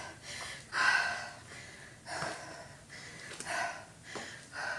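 A woman breathing hard through a set of lunges: a short, breathy exhale about every second, with a few faint taps in between.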